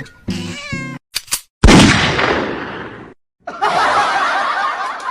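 A loud sudden bang, like an explosion sound effect, that dies away over about a second and a half, preceded by a moment of music and two sharp clicks. After a short silence, laughter and chatter start.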